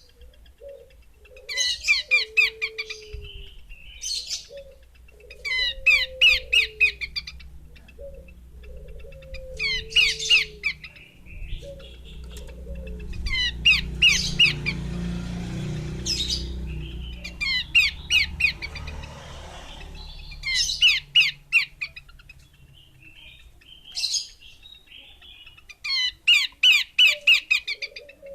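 Female pelanduk semak (a small babbler) calling: repeated bursts of rapid chirping notes about every four seconds, with short lower falling whistles between them. A spell of low rumbling background noise comes up in the middle.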